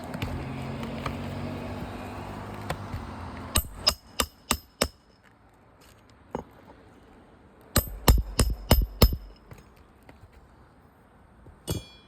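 Hammer blows during roof shingle repair work, sharp strikes in quick runs: five about three and a half seconds in, a single one, then about six more in rapid succession and a last one near the end. A steady background rumble fills the first three and a half seconds and then drops away.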